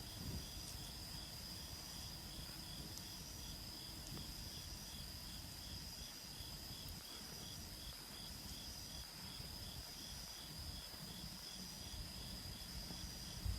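Crickets and other insects singing steadily outdoors: one continuous high trill with a quicker pulsing chirp beneath it, about three pulses a second, over a low rumble and a few faint pops.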